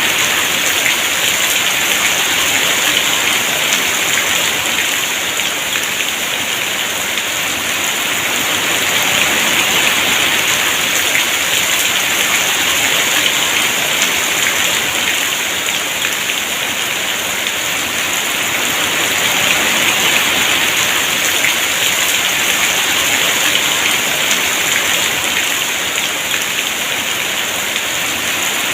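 Heavy rain falling steadily in a dense hiss, swelling and easing slightly every several seconds.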